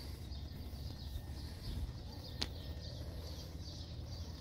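Faint birds chirping over a low steady rumble of outdoor background noise, with a single sharp click about two and a half seconds in.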